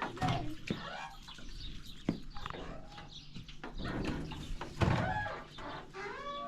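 Chickens clucking and calling, many short calls overlapping in quick succession.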